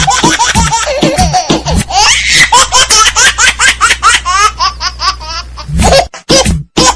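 Background music with a steady beat, then from about two seconds in a long run of rapid, high-pitched laughter over it, which breaks off near the end into a few short bursts.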